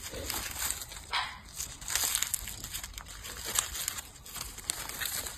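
Paper crinkling and crackling in irregular bursts as a pet parrot chews and tears at it.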